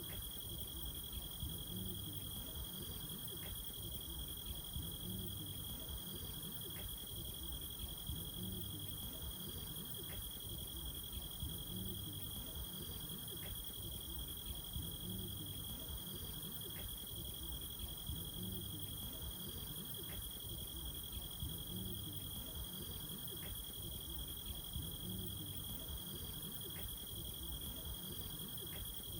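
Crickets chirring steadily in a high, even tone, with a faint low pulse repeating about every second and a half.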